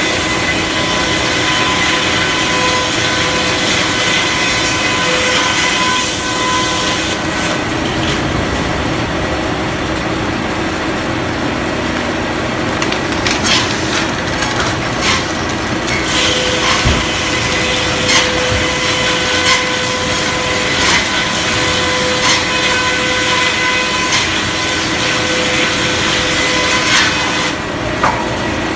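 Circular sawmill running and sawing wood: a loud, steady mechanical din with a held whine that comes and goes, and a few sharp knocks in the second half.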